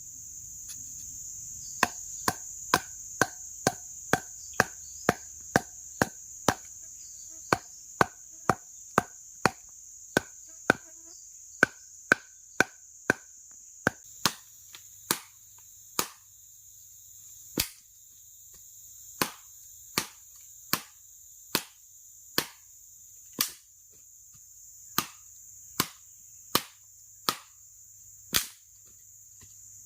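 Chopping at wood with a blade, a steady run of sharp strikes about one to two a second, many with a short ring, slowing a little in the second half, over a steady high chorus of forest insects.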